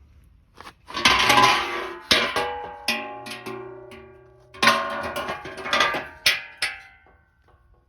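Two clusters of sharp clattering strikes with ringing tones that die away, the first about a second in and the second about four and a half seconds in.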